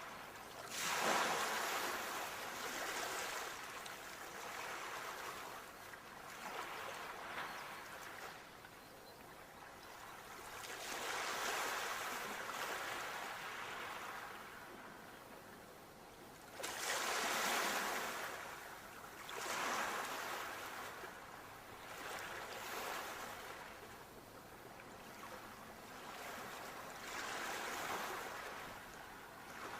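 Sea waves breaking and washing up a shore, one surge after another every few seconds, the loudest about a second in and again about seventeen seconds in.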